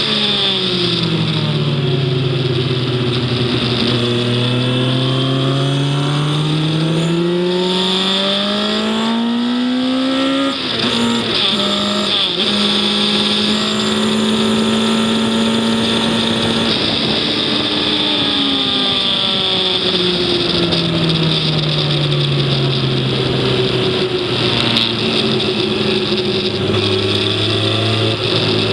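Racing vehicle's engine heard onboard, climbing in pitch under acceleration for about ten seconds, breaking briefly as a gear changes, then holding steady before falling away as it slows and picking up again near the end, over steady wind and road hiss.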